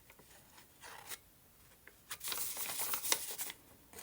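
Dry paper scraping and rustling as a hot soldering iron tip is drawn along the edge of a sheet to scorch it: a few light scratches, then a longer scratchy stretch for about a second and a half near the middle.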